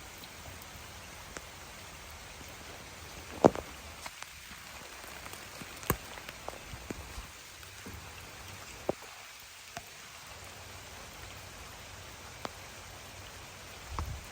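Rain falling in a garden: a steady hiss with single heavier drops striking close by as sharp taps, the loudest about three and a half seconds in.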